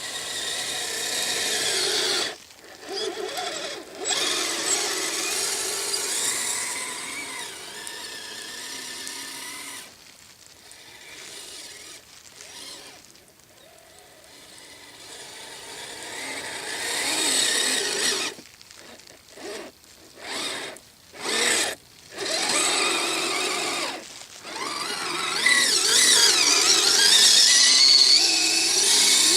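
Electric motor and geartrain of a Kyosho Blizzard SR radio-controlled snowcat whining as it drives in bursts, stopping and starting several times, loudest near the end.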